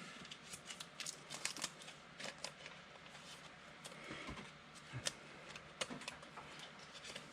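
Trading cards being handled and sorted by hand: faint, irregular clicks and soft rustles of card stock sliding and tapping.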